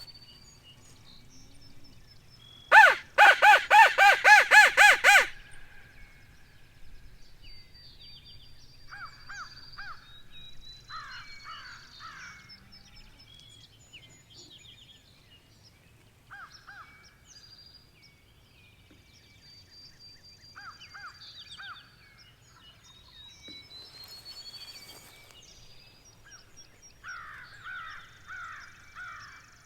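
A crow cawing about eight times in quick succession a few seconds in, the loudest sound here, followed by quieter bird calls: rising whistled notes and short runs of falling notes.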